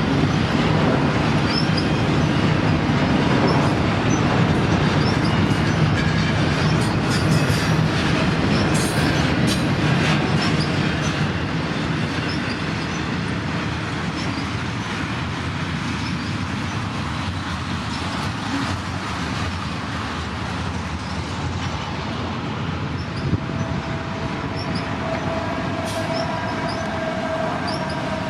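A CPKC freight train's cars rolling past, a steady rumble and clatter of steel wheels on rail. A steady squealing tone comes in near the end.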